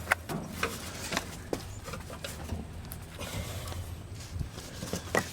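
Irregular light clicks and knocks of small metal parts and hand tools being handled, the sharpest about a tenth of a second in and again near the end.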